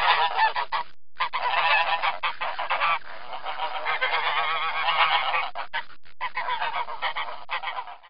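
Domestic geese honking, with many calls overlapping in a continuous clamour and a short break about a second in.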